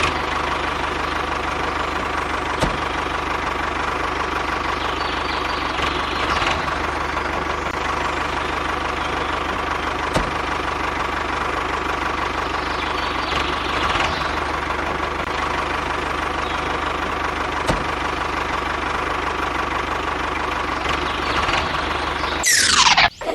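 A homemade mini tractor's small motor running steadily with an even whine, with a faint tick repeating about every seven and a half seconds.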